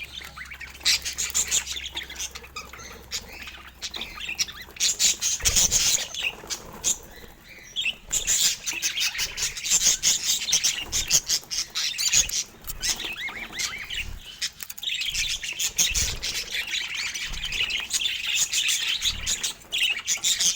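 Budgerigars chattering and warbling, a dense stream of quick high chirps and trills.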